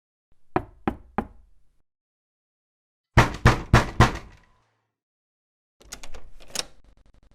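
Knocking on a door: three knocks, then after a pause four louder knocks, then a quicker, fainter cluster of raps near the end.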